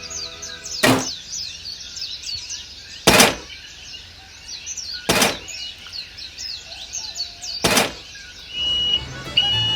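Many small birds chirping quick, falling notes, over which four sharp knocks land about two seconds apart. A short high steady tone sounds twice near the end.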